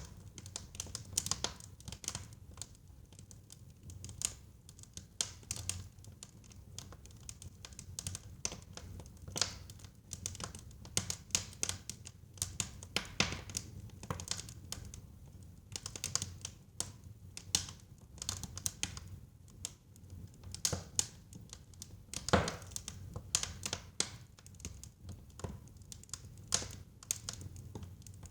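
Wood fire burning in a fireplace: irregular crackles, snaps and pops over a low steady rumble of the flames, with one louder pop about three quarters of the way through.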